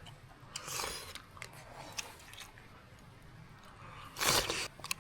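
A person eating hot food: two short breathy mouth sounds, one about a second in and one near the end, with small clicks of chewing and utensils between.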